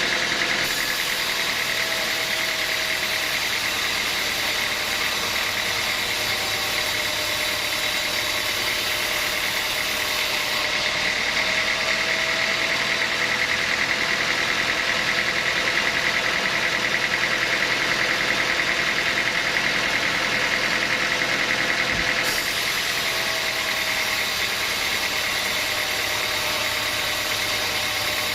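Sawmill machinery running steadily with a continuous mechanical drone and hiss. A faint tone wavers slightly underneath.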